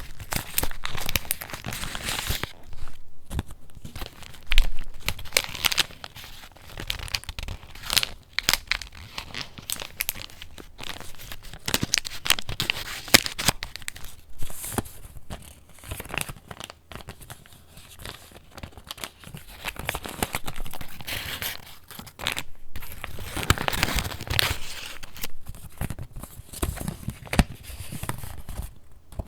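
Pages of a handmade paper junk journal being turned and handled: continuous paper rustling and crinkling with crisp snaps of stiff pages, and a louder knock about four and a half seconds in.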